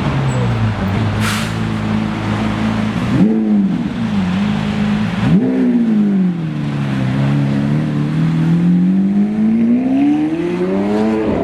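Sports car engine running loudly. It is blipped sharply twice about three and five seconds in, then its pitch sags and climbs slowly for several seconds before dropping near the end.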